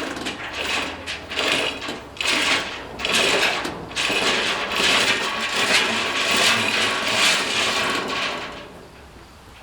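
Cargo tie-down strap being worked tight: a run of rasping, clattering strokes that stops near the end.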